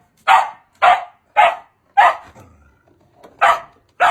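A dog barking in a quick series of short barks, about two a second, with a pause in the middle.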